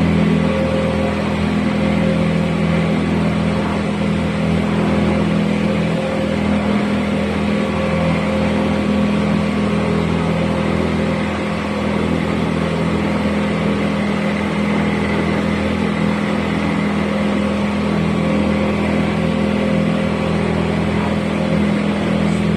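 Boat engine running steadily at cruising speed, a constant low drone with water and wind noise over it.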